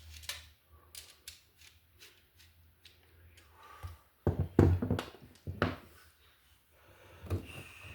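Hands working a screwdriver on a new wall receptacle, running down its unused terminal screws: light clicks and scrapes, with a cluster of louder knocks about halfway through.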